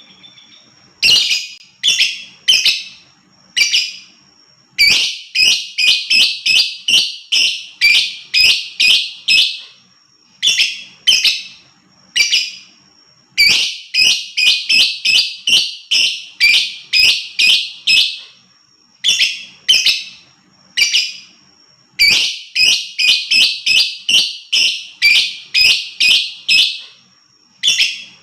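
Lovebird calling: sharp, shrill chirps repeated in quick runs of about three a second, broken by short pauses.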